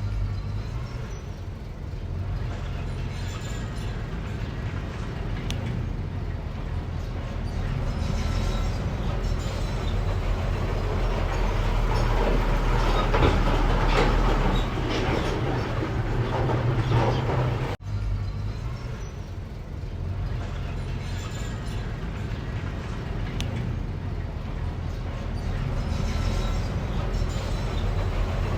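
Mini bulldozer's engine running steadily under work, with noisy mechanical clatter that grows louder for a few seconds past the middle. A sudden brief break comes about two-thirds through.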